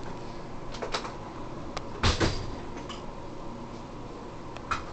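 A few light knocks and clicks over a low background hum, the loudest pair about two seconds in.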